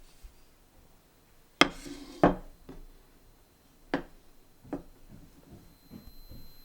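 A handful of sharp strikes on wood: two loud ones close together about a second and a half in, the first with a brief crackle after it, then three lighter knocks over the next few seconds, as in chopping or splitting firewood.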